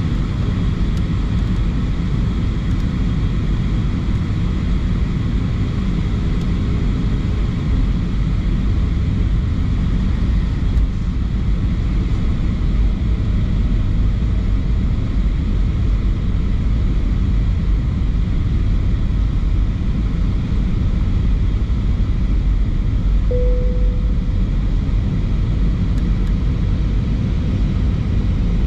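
Airbus A320 cabin noise: a steady, loud rumble of the engines heard inside the passenger cabin, with one brief tone about two-thirds of the way through.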